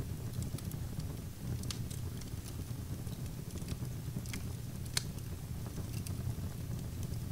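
Wood fire burning in a fireplace: irregular crackles and pops over a steady low rumble, with the sharpest pop about five seconds in.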